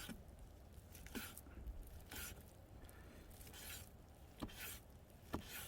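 Faint short scraping strokes, each with a light knock, repeating about once a second.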